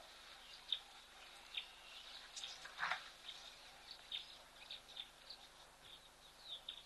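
Faint, short bird chirps scattered through quiet open-air ambience, with a brief louder rasp about three seconds in.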